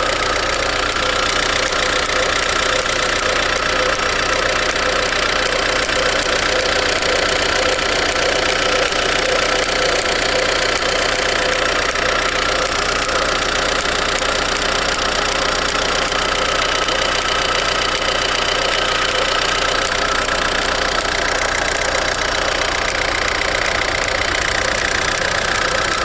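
Ford Mondeo Mk4 1.8 TDCi four-cylinder turbodiesel engine running steadily, with a few steady tones over the engine noise; this is the weird sound the owner is recording as a possible fault.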